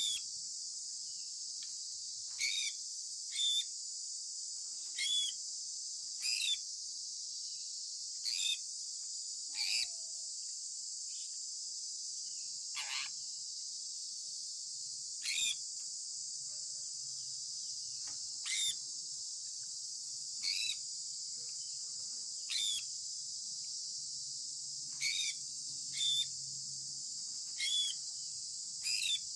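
Sun conure giving short, high chirps that slide downward in pitch, repeated every second or two, over a steady high-pitched hiss.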